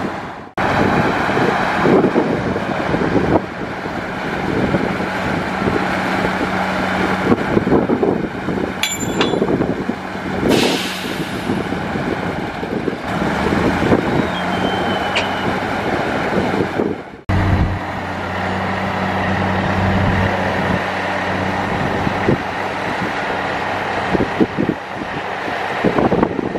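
Heavy diesel earthmoving machinery, a bulldozer working with dump trucks, running steadily with repeated clanks and knocks. A short hiss comes about ten seconds in, and the sound drops out abruptly twice and resumes.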